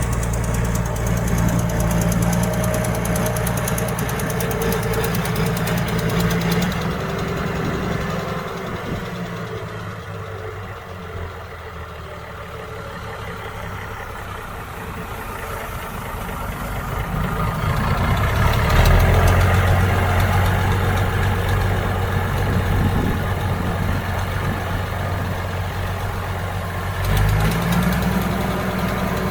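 Diesel engine of heavy earthmoving machinery running with a steady drone. It fades to its quietest about ten seconds in and grows loud again after about eighteen seconds. Near the end its pitch rises briefly as it revs.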